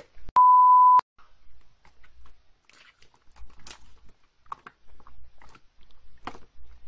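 A loud steady censor-style bleep lasting about two-thirds of a second near the start, followed by quieter scattered sticky clicks and crackles of slime being pressed and played with by hand.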